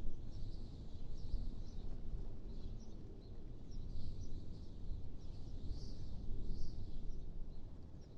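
Low wind rumble that swells and eases, with small birds chirping high and repeatedly over it.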